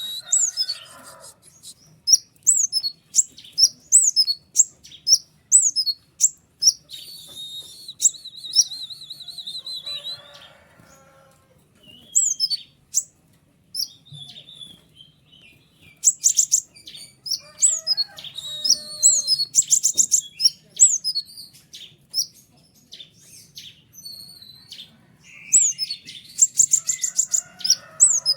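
A konin, a small sunbird, singing in quick bouts of sharp high chirps, sweeping notes and fast twittering trills, with a quieter gap about halfway through.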